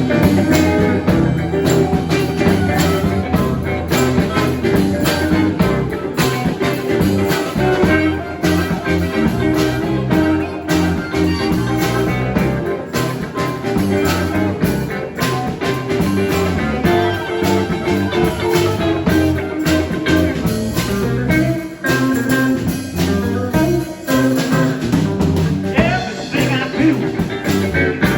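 A band playing blues-style music, led by guitar over a steady beat.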